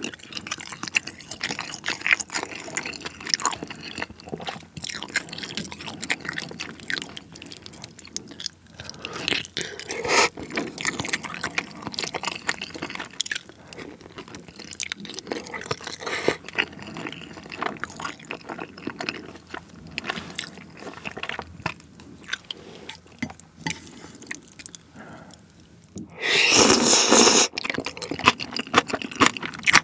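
Close-miked chewing and biting of spicy steamed monkfish and noodles: wet mouth clicks and smacks all the way through, with one louder noise about a second and a half long near the end.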